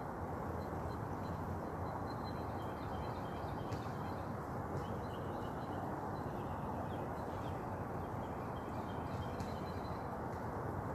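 Steady outdoor noise, a low even rumble, with faint high bird chirps scattered through it.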